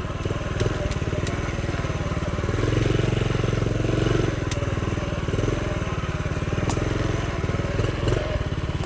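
Small four-stroke single-cylinder engine of a Honda CT70 Trail 70 running on the move. The revs rise from about two and a half seconds in and ease off again after about four seconds. A few faint clicks come through over the engine.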